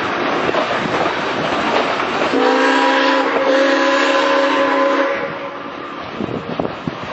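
SAR 207 steam locomotive under way, with a steady rush of steam and running-gear noise. About two seconds in its steam whistle sounds one blast of about three seconds, a chord of several steady tones.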